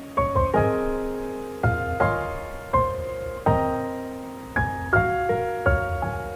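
Background piano music: slow, soft chords struck about once a second, each one fading before the next.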